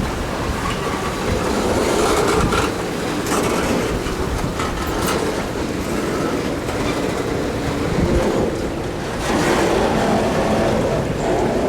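Freight train cars rolling slowly past, with steady rumbling and wheels clicking over the rails.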